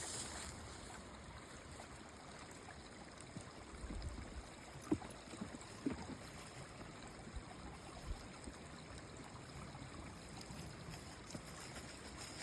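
Small stream of water running and trickling at a makeshift stick-and-leaf dam, a steady low rush with a few light clicks.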